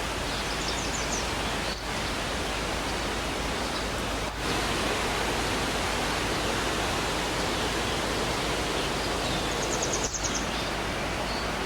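Mountain river water rushing over rocks: a steady, even rush of flowing water.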